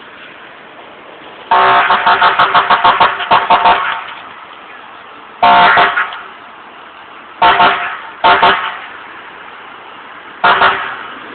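Vehicle horn honked repeatedly: a rapid string of about a dozen quick toots, then four more separate honks, over steady traffic noise.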